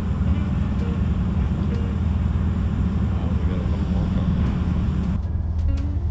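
A steady low engine rumble, idling without revving.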